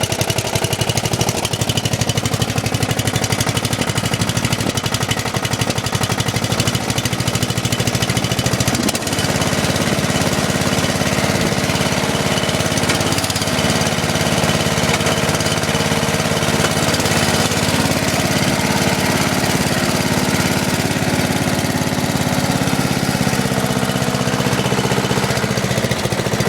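Briggs & Stratton 12.5 hp lawn mower engine running steadily while the machine is driven. Its note shifts about nine seconds in and again a few seconds later.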